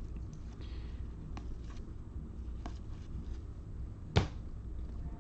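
Trading cards being handled on a table: a few faint clicks and a brief swish of cards, then one sharp knock about four seconds in, over a steady low hum.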